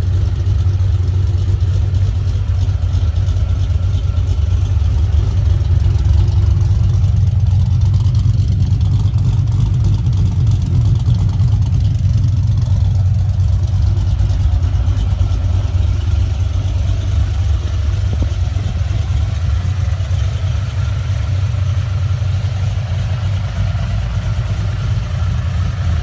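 Supercharged, cammed Holden VE Commodore SS V 6.0-litre V8 idling steadily through a decatted twin 3-inch exhaust with rear mufflers.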